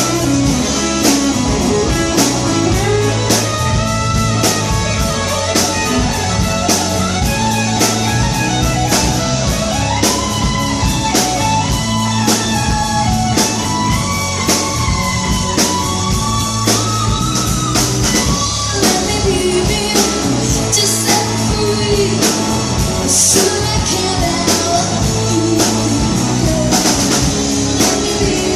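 Rock song: guitar and drum kit with a steady beat of about two hits a second, and a voice singing a melody over them.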